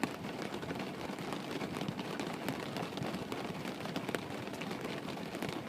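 Steady rain falling: an even hiss with many small scattered drop taps.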